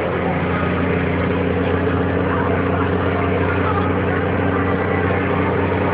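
Scania truck's diesel engine running steadily under way, a constant low hum with road noise.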